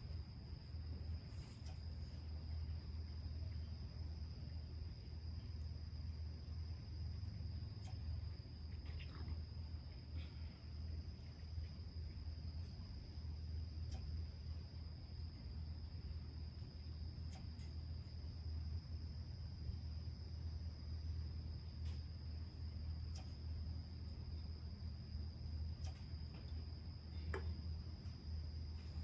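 Insects trilling steadily in one high-pitched, unbroken note, with a second, higher insect chorus pulsing about once a second. Scattered faint pops and crackles from a small wood fire.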